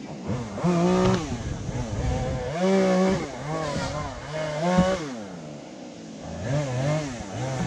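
Chainsaw engine revved up and down over and over while cutting through fallen eucalyptus trunks, its pitch climbing and sinking every second or two.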